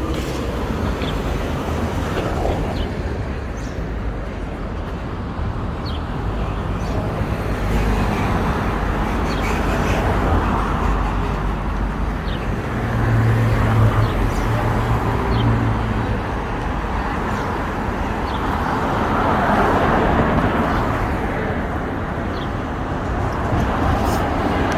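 Steady road traffic passing, swelling twice as vehicles go by, with a low engine hum in the middle.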